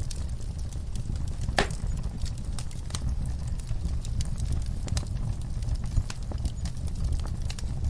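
Wood fire burning in a fireplace: a steady low rumble of flames with irregular crackles and pops from the logs, one sharper pop about a second and a half in.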